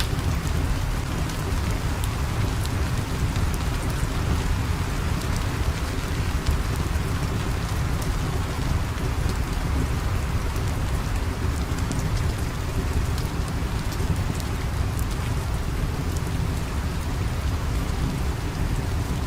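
Steady rain with a deep low rumble, and scattered sharp crackles throughout, as from a crackling fire.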